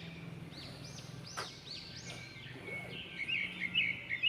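Birds chirping in the background: a series of repeated high arching notes, with quicker, louder warbling notes joining in the last second or so.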